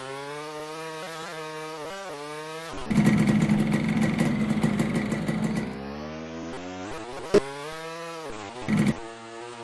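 Motocross dirt bike engines revving up and down, pitch climbing and dropping with throttle and gear changes. About three seconds in, a much louder, rougher stretch lasts nearly three seconds, like a bike passing close at high revs. Two short sharp bangs come later on.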